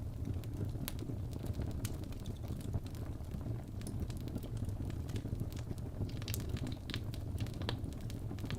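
Wood fire burning in a fireplace: a steady low rumble of the flames with scattered sharp pops and crackles, coming more often in the second half.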